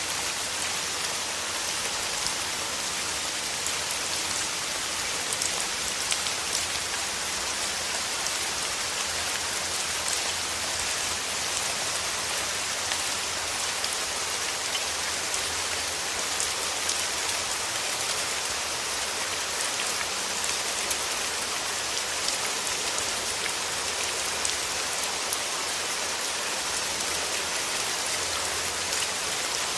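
Steady rain: an even hiss of falling water, with many scattered sharper drop ticks.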